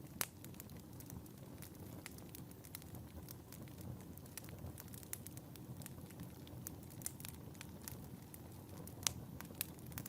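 Wood fire burning in a fireplace: a soft low rumble of flames with frequent irregular crackles and pops, two louder snaps near the start and about nine seconds in.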